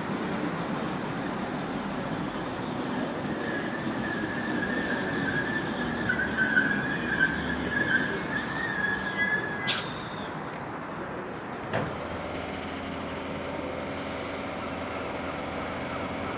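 Electric multiple-unit train braking with a high, wavering squeal, then a sharp click and a knock as it comes to a stand. It then stands with a steady hum from its onboard equipment.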